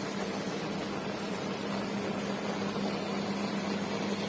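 Steady machine hum with a constant low tone and an even hiss, unchanging throughout.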